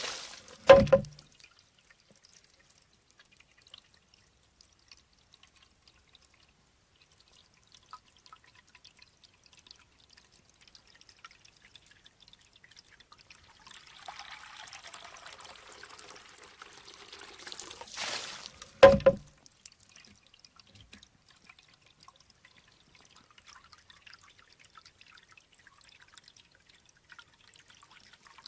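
Bamboo shishi-odoshi fountain: water trickles faintly into the tube, and twice the tube tips, spills its water and swings back to strike its stone with a sharp, hollow clack. The first clack comes about a second in; the second comes some eighteen seconds later, after a few seconds of louder pouring.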